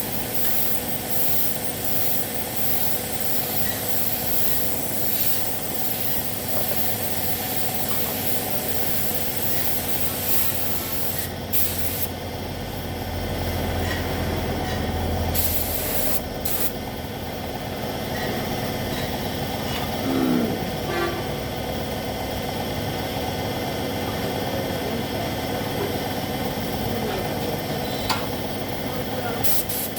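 Compressed-air paint spray gun hissing as colour is sprayed onto motorcycle body panels, the spray stopping and starting a few times.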